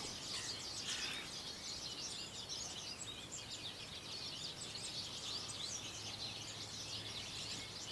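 Faint outdoor ambience of many small birds chirping, with short high notes overlapping one another and a faint low hum underneath.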